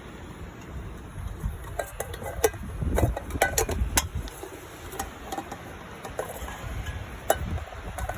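Utensils clinking and scraping against a metal camping cook pot while noodles are stirred, with a run of sharp clicks a couple of seconds in and one more near the end. Wind rumbles on the microphone underneath.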